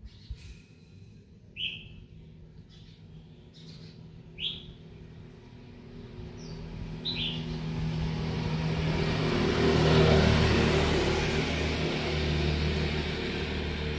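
A small bird chirping with short repeated calls, then a motor vehicle passing, its engine and road noise building from about halfway, peaking about ten seconds in and fading slightly.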